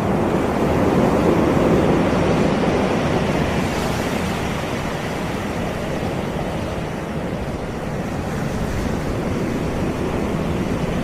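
Caribbean sea surf washing on the shore: a continuous wash that swells about a second in and then eases off, with a low rumble of wind on the microphone.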